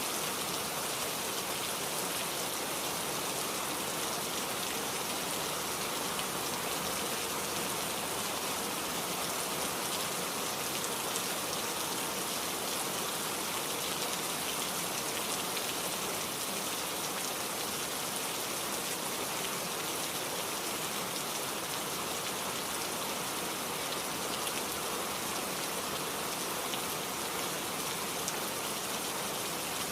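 Heavy rain falling steadily, a constant even hiss of many drops on surfaces.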